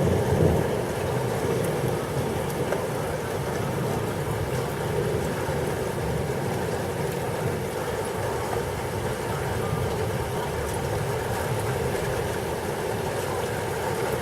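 Heavy thunderstorm rain and wind, a steady rushing noise, with a brief louder swell in the first second.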